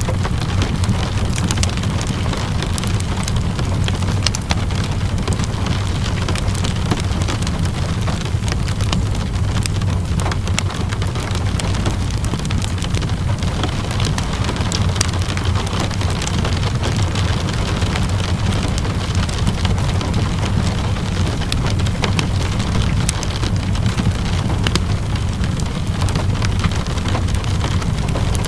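Steady rain with many scattered sharp crackles from a wood fire, over a constant low rumble.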